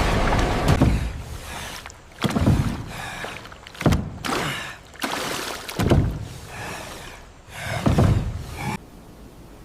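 A series of five heavy, low thuds about two seconds apart, each dying away briefly after the hit.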